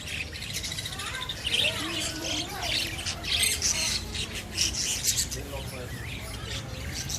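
Many young caged birds chirping and squawking together: a dense, continuous chatter of short, high calls.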